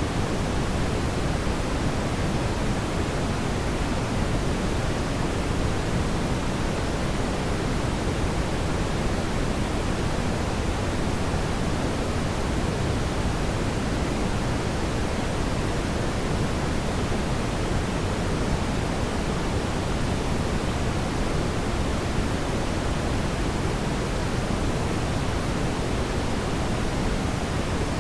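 Steady, even rushing noise, strongest in the low end, with no distinct crackles or pops, sounding much like pink noise. It comes from a fireplace ambience track.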